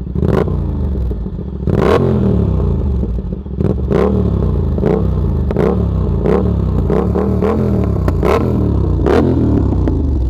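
Yamaha MT-07's CP2 parallel-twin engine with an aftermarket exhaust, revved in a dozen or so quick throttle blips that rise and fall in pitch. Several blips end with a sharp crack from the exhaust.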